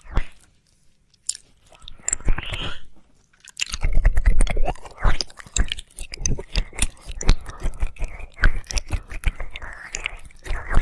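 Wet mouth sounds of ASMR ear licking: quick wet clicks and smacks. A near-quiet pause at the start gives way to a brief breathy sound, then a dense run of clicks from about three and a half seconds in.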